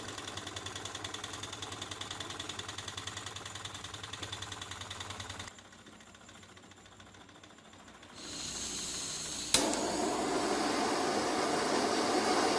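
Small beta-type Stirling engine running with a fast, even mechanical clatter. About five and a half seconds in the sound cuts off abruptly; near the end a sharp click is followed by a louder steady rushing noise.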